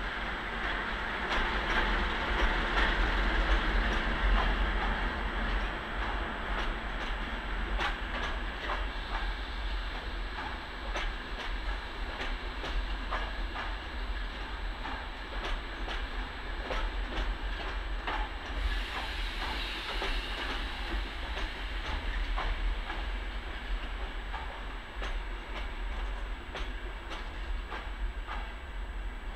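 Diesel locomotive running past at the head of a passenger train, loudest in the first few seconds. Then the passenger coaches roll by with a steady rumble and repeated clicks of wheels over rail joints.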